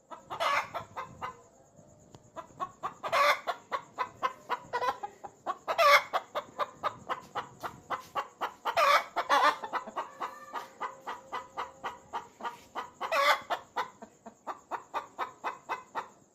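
Chickens cackling: a fast run of clucks, about five a second, broken every few seconds by a louder drawn-out squawk.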